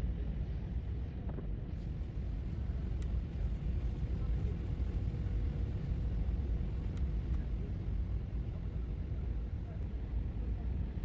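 Steady cabin noise of an Airbus A319 airliner in flight: a constant low rumble of engines and airflow with a faint steady hum.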